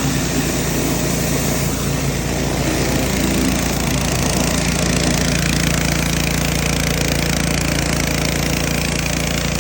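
A small engine or motor running steadily at a constant speed, with an even low hum.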